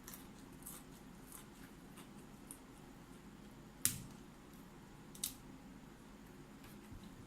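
Close-miked eating of raw broccoli: faint crunching and chewing with scattered small clicks, and two sharper, louder clicks about four and five seconds in.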